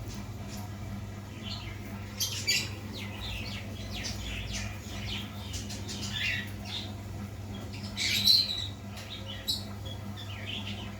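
Baby parrot chirping and squawking in short, high-pitched calls at irregular intervals, with a louder squawk about eight seconds in.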